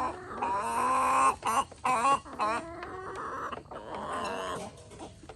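Free-range chickens clucking and calling, a series of short calls with one longer drawn-out call about a second in.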